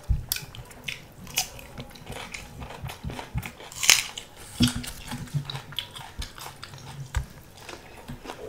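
Close-miked eating sounds: two people chewing and biting food, with irregular wet mouth clicks and smacks. A sharper, louder bite comes about four seconds in.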